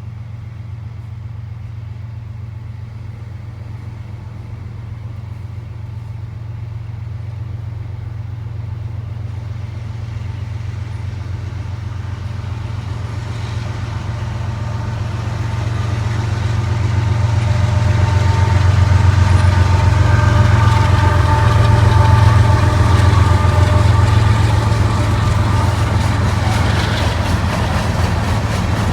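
Lead GE diesel-electric locomotives of a loaded Union Pacific rock train running, their engines making a deep drone that grows louder as they draw near, peaking about two-thirds of the way through, with a whine above it at its loudest.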